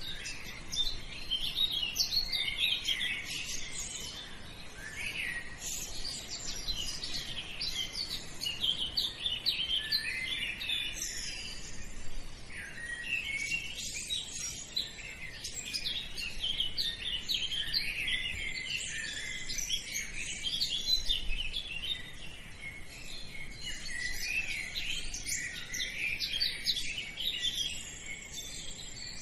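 Many small birds chirping and twittering all at once, a dense, continuous chorus of quick overlapping high-pitched chirps.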